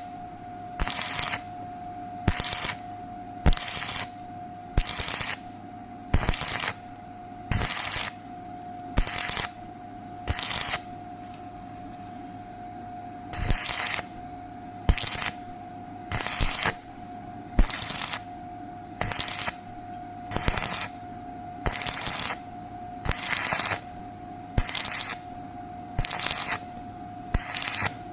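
Arc welding crackling in short regular bursts about every second and a half, with a pause of about two seconds in the middle, over a steady electrical whine.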